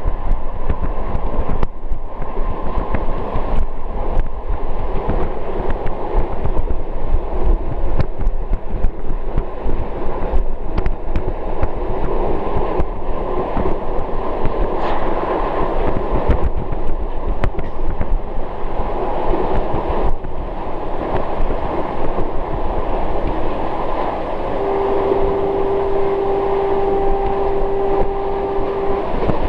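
Moving train heard from inside a carriage: a steady rumble of wheels on the rails with frequent clicks as the wheels cross rail joints. Near the end, a single horn note is held for about four seconds.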